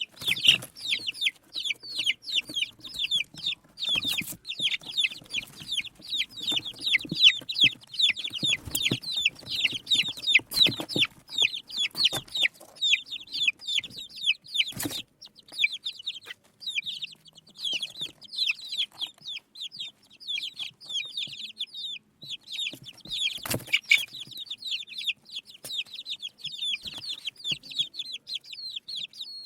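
Many small birds chirping continuously, a dense stream of short high-pitched peeps several per second, with a few sharp knocks now and then.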